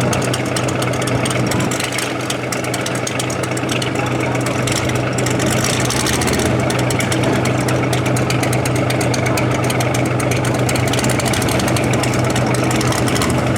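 Mini rod pulling tractor's engine running at a steady idle, a low, even drone with no revving.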